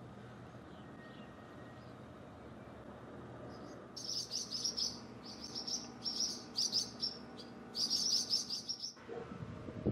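Barn swallows chirping in quick high twittering bouts, starting about four seconds in, over a faint low background hum.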